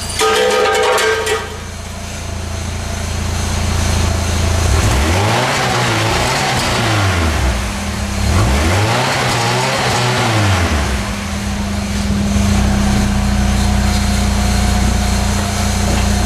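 1998 Pontiac Sunfire GT's four-cylinder engine idling and revved twice through a somewhat loud exhaust. Each rev rises, holds briefly and falls back, cut off by a 4,000 RPM rev limiter, before the engine settles back to idle.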